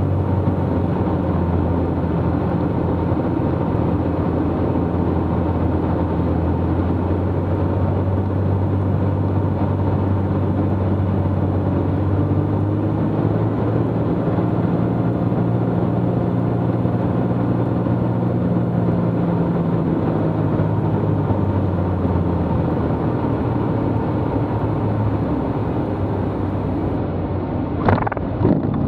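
Cessna T210's turbocharged six-cylinder piston engine and propeller running at low power as the plane slows on the runway after landing, a steady drone whose pitch shifts slightly midway and eases off near the end.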